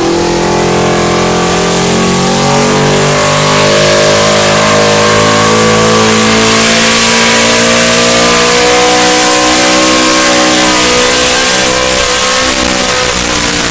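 Pulling truck's engine running hard at high revs under load down the track. The pitch climbs slowly over the first few seconds, holds steady, then eases off slightly near the end.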